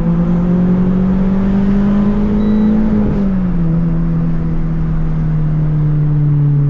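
Car engine running at road speed, its pitch climbing slowly, then dropping within about half a second around three seconds in, then holding steady.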